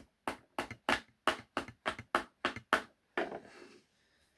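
A quick, even run of sharp clicks, about five or six a second, from RC car parts being worked together by hand during reassembly. The clicks stop about three seconds in, and a short scraping rustle follows.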